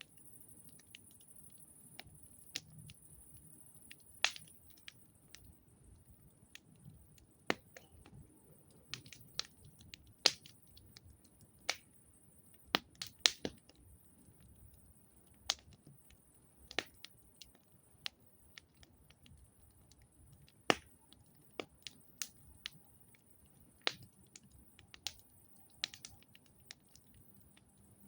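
Campfire crackling: burning wood gives off sharp, irregular snaps and pops, a few every couple of seconds, with a louder cluster about thirteen seconds in.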